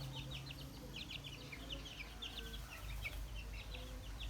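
Chicks peeping in a dense stream of short, high chirps, with a hen clucking low underneath.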